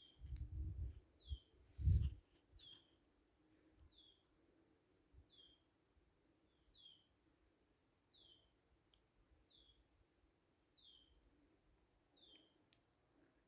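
A bird repeats a two-note call over and over, a short steady high note followed by a lower falling note, about once every second and a half. Low rumbling thumps sound in the first two seconds, the loudest about two seconds in.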